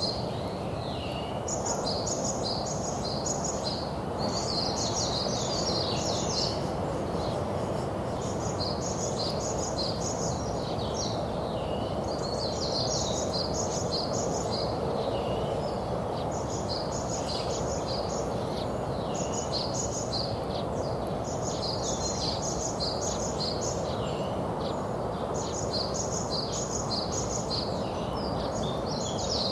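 A songbird singing the same short phrase over and over, a quick run of high two-note figures lasting a couple of seconds, repeated every few seconds over a steady background hiss and rumble.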